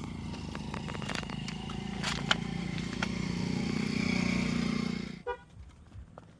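Motorcycle engine running, getting louder, then cutting off abruptly about five seconds in; a few sharp clicks sound around two seconds in.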